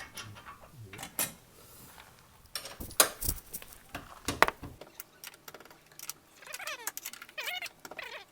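Metal parts and hand tools clinking and knocking against each other while a coilover is being dismantled, with a few sharp knocks about three seconds in and again a second later. Near the end a high, wavering call-like sound.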